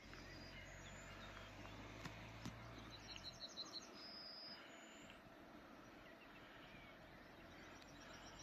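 Quiet open-country ambience with small birds chirping, including a quick run of repeated high notes and a couple of short whistles. A faint low hum in the first few seconds stops about three seconds in.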